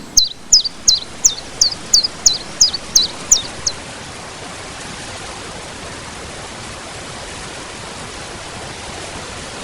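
Steady hiss of heavy rain, with a bird giving a quick series of about nine falling, high-pitched chirps over it in the first three and a half seconds.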